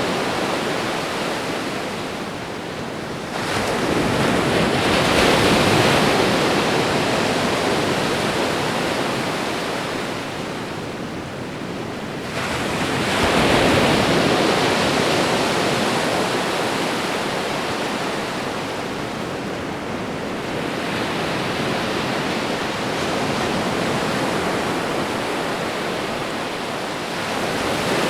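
Ocean waves breaking and washing onto the shore, a continuous rushing surf that swells and fades, with the biggest waves arriving about 4 seconds and 13 seconds in.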